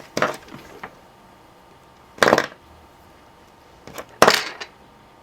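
Small hand tools working on thin insulated wire: three short, sharp snipping and scraping sounds about two seconds apart, as the wire's insulation is cut and stripped.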